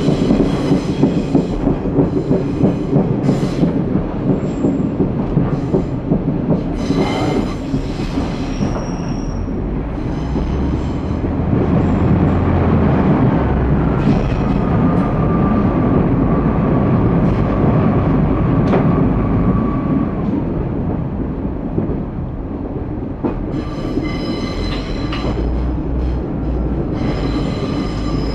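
Class 142 Pacer railbus running along the line: steady engine and running rumble, with a drawn-out wheel squeal in the middle. Short rattles and knocks come in the first few seconds and again near the end.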